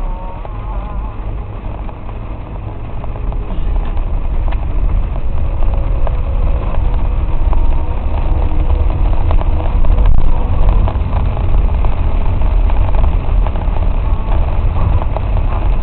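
A car driving through a flooded road, heard from inside the cabin: a deep, steady rumble of engine and water under the car that grows louder about three seconds in.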